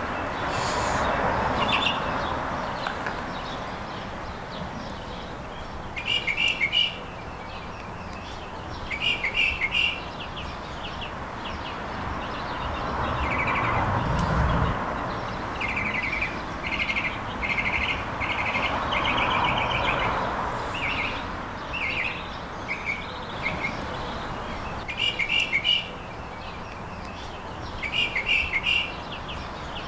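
Small birds chirping in short, quick trilled phrases, repeated every few seconds and coming thickest about two-thirds of the way through. Beneath them is a soft hiss that swells and fades three times, with a brief low rumble about halfway.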